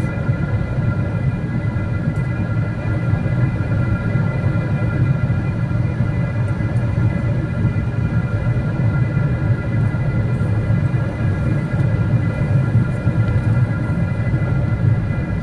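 Steady cabin noise inside a Boeing 777-300ER: a dense low rumble of its GE90 engines and airflow, with several steady whining tones above it.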